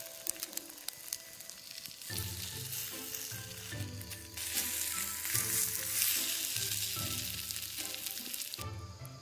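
Food sizzling and spitting as it fries in a pan. Background music with a repeating low bass line comes in about two seconds in, and the sizzling cuts off near the end.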